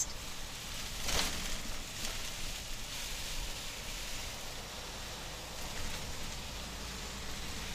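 Steady hiss of rain and wet-road tyre spray heard from inside a semi truck's cab as it drives along a wet interstate, over a low engine and road rumble. A brief louder swish comes about a second in.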